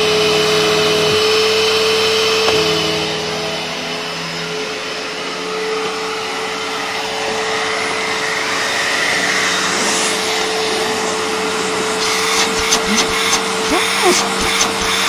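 Panasonic MCE-465 1500-watt vacuum cleaner running at full suction, a steady whine over the rush of air. Near the end a run of sharp clicks and rattles comes in over it.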